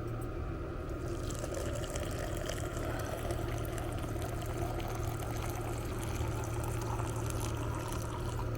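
Running water, a steady trickling rush like a stream flowing, over a steady low hum.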